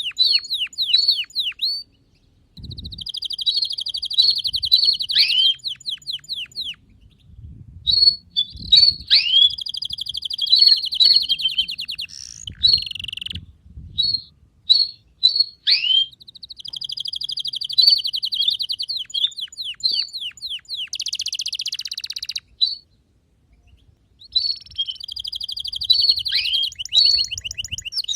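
Domestic canary singing: long rolling trills of rapidly repeated notes mixed with sharp downward-sweeping whistles, in phrases separated by short pauses.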